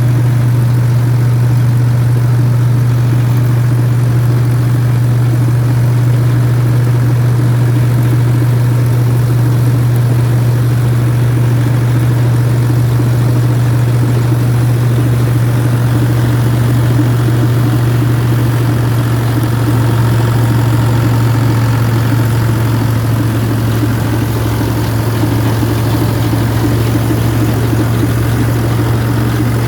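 Ford 3610 tractor's three-cylinder diesel engine running steadily at a constant speed while pulling a straw reaper.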